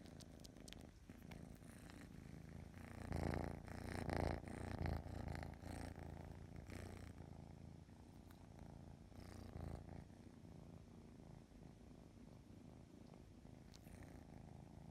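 Domestic cat purring close up, swelling louder for a few seconds from about three seconds in, with small clicking sounds scattered through it.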